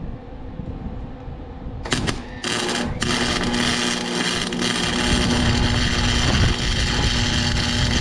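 Arc welding: a few short arc strikes about two seconds in, then a steady crackling weld bead with a low hum that runs for about five seconds and cuts off suddenly at the end.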